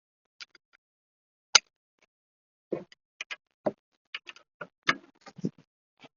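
Irregular sharp metallic clicks and knocks of hand tools on brake parts, one loud knock about a second and a half in, then a quicker uneven run of a dozen or so.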